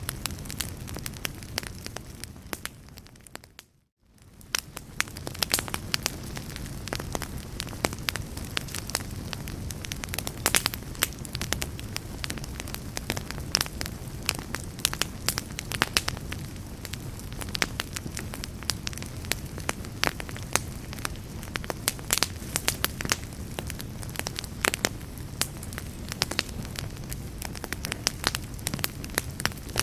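Wood fire crackling, with a dense, irregular stream of sharp pops over a steady low rumble of flames. About four seconds in, the sound fades almost to nothing and comes back within a second.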